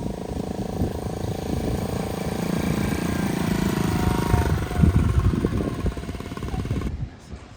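A motor vehicle's engine running, its pitch wandering up and down, cutting off suddenly near the end.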